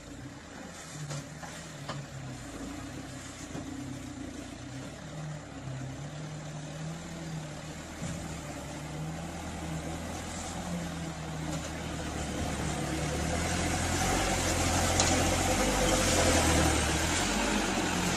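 A vehicle engine running steadily, growing louder over the second half.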